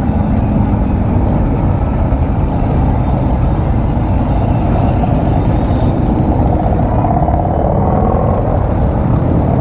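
Dense road-traffic rumble with idling and passing motor vehicles, heavy ones among them. About seven seconds in, one passing engine's tone swells and falls away.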